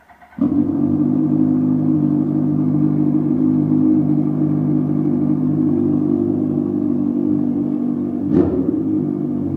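2002 Yamaha R1 inline-four, its exhaust silencer removed so it runs on an open pipe, cranks briefly and catches about half a second in, then idles loud and steady. It is blipped once briefly near the end.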